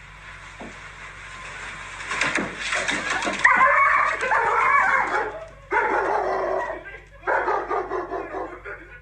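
A dog vocalizing in three drawn-out calls whose pitch wavers up and down, after a few seconds of rustling noise.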